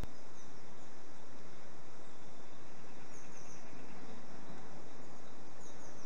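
Steady background hiss with a few faint, high bird chirps about three seconds in and again near the end.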